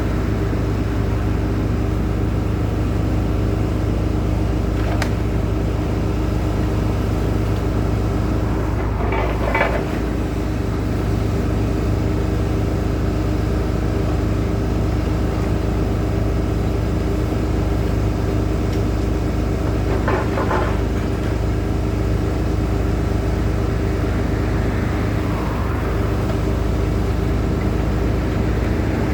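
Steady rumble of heavy diesel machinery running, with a constant low engine hum. There is a click about five seconds in and two short bursts of higher noise, about nine and twenty seconds in.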